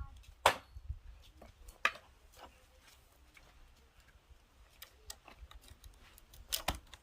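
A knife chopping on a board in a few sharp strokes: one about half a second in, another near two seconds, and two in quick succession near the end, with faint small clicks in between.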